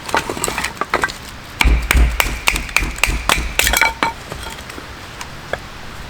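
Metal camping gear being handled close by, a quick series of clinks and knocks with short metallic rings, busiest through the middle and thinning to a few taps near the end.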